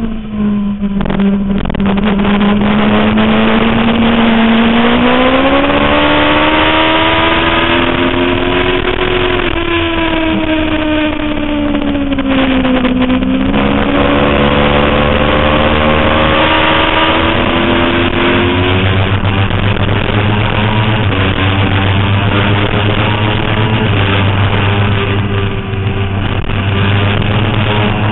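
2005 Suzuki GSX-R750's inline-four engine at speed on track. The revs climb for several seconds, fall away, break briefly at a gear change about halfway through, climb again, then settle to a steadier, lower note for the last third.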